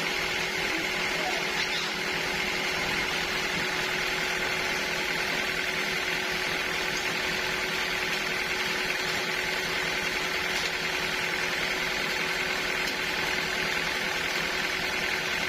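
Sawmill machinery running steadily, a constant hum with a high whine that does not change.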